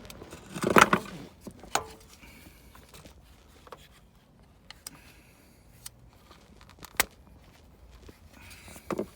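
Hand-work on the engine's spark plug wires with the engine off: a loud short scrape about a second in, then scattered clicks, the sharpest about seven seconds in, as a plug wire is worked off.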